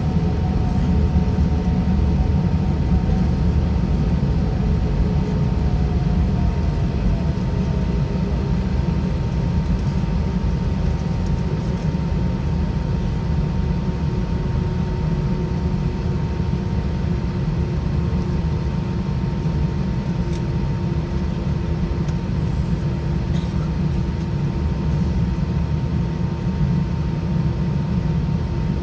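Steady cabin noise of an Airbus A320 with its IAE V2500 engines running, heard from inside the cabin: an even, deep roar with a faint steady whine and a few faint tones that slowly drift lower.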